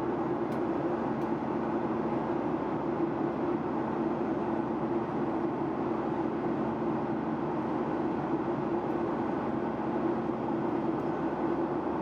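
Steady drone of a Boeing 737-800 heard inside the passenger cabin, an even rushing noise with a low hum that does not change.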